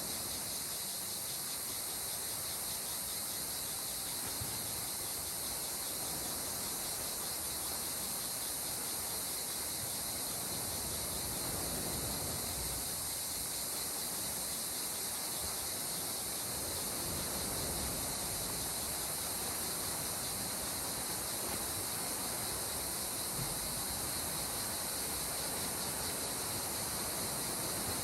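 Calm sea water washing gently against the shore in slow swells, under a steady high chirring of insects.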